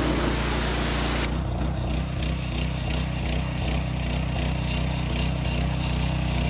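Gas-powered pressure washer running, with a hiss of spray until about a second in. Then the spray stops and the engine and pump run on with a steady pulsing.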